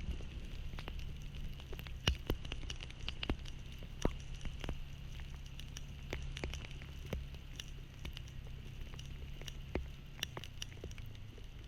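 Raindrops striking the camera in irregular sharp ticks during a thunderstorm, over a low steady rumble.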